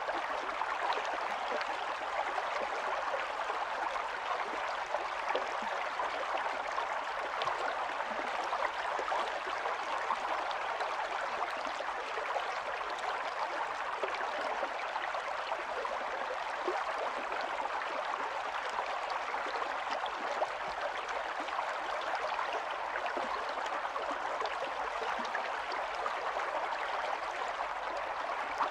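Stream water running and splashing, a steady rush with small trickles and gurgles throughout.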